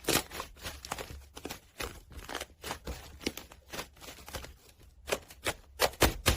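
Slime being played with by hand, giving irregular sticky clicks and pops, several a second.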